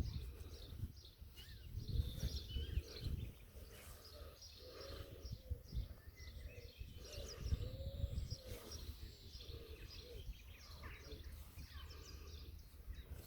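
Outdoor ambience: small birds chirp on and off over an uneven low rumble, with a few lower rising-and-falling calls in the middle.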